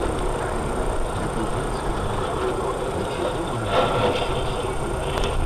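Steady vehicle engine and road noise, with a brief louder burst of noise about four seconds in.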